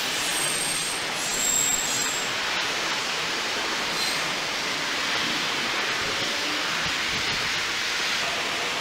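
Passenger coaches rolling past on station track, a steady rumble and rush of wheels on rail. A thin, high-pitched wheel squeal comes in the first couple of seconds.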